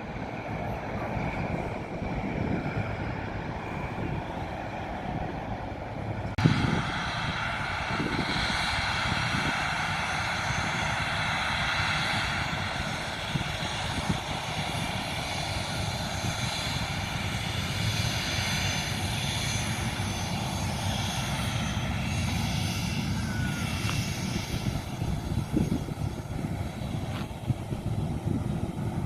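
Airplane engines running, a steady low rumble with a whine of several high steady tones that cuts in sharply about six seconds in and holds, thinning toward the end.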